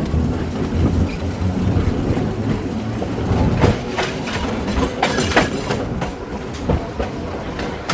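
Vintage electric trolley car (1926 Wason-built Springfield Electric Railway No. 16) running along the track: a steady low rumble, with irregular clacks of the wheels over rail joints starting about three and a half seconds in.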